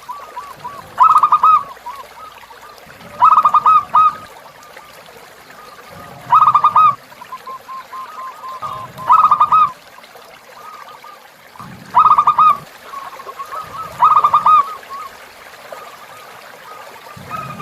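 Zebra dove (perkutut) cooing: six loud rippling coo phrases, spaced two to three seconds apart, with softer quick notes between them. A faint trickle of river water runs underneath.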